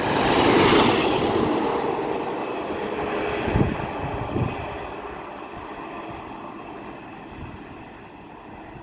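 Network Rail Class 153 single-car diesel unit 153311 passing through at speed. A rushing noise peaks about a second in and then fades away, with two thumps from the wheels over the rail joints midway.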